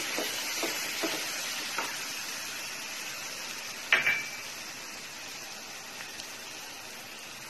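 Chopped onions and green chillies sizzling as they fry in a stainless steel pan, with a steady hiss that slowly dies down. A spatula stirs them with a few light scrapes and gives one sharp knock against the pan, which rings briefly, about four seconds in.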